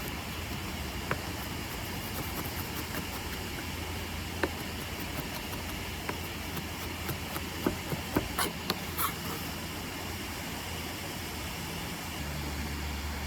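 Steady rushing background noise with a low hum, and scattered light clicks and taps from food preparation, several close together about eight seconds in.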